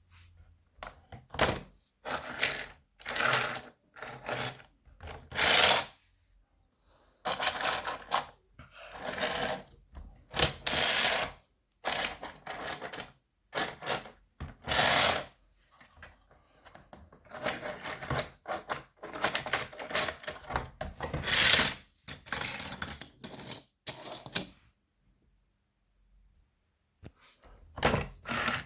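Small toy engines rattling and clicking in irregular bursts as they are pushed along toy train track, with a pause of about two seconds near the end.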